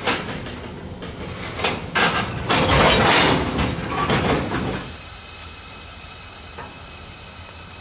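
Freight train of loaded tank cars rolling past close by: steel wheels clicking over rail joints under a loud rushing rumble. About five seconds in the sound drops to a softer, steady rush.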